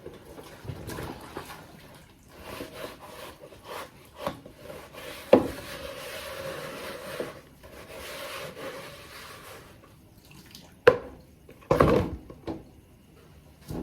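Handling noises: irregular scraping and rubbing with several sharp knocks, the loudest of them near the end.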